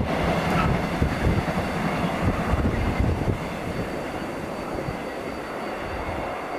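Train passing on the track, its wheels clattering over the rails with uneven low knocks; the noise eases off about halfway through.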